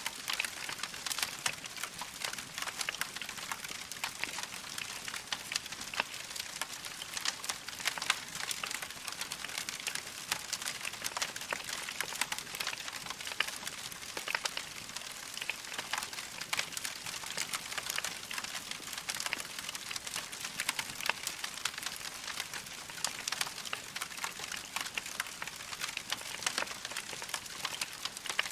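Wood fire crackling in a fireplace: a dense, continuous run of irregular small pops and snaps over a soft hiss.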